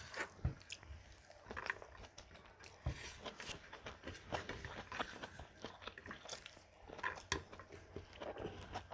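A person chewing and biting food close to the microphone, with many small, irregular crunches and wet mouth clicks.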